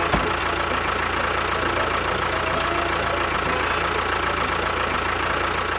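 A small engine running steadily at an even speed, with a constant high whine over it.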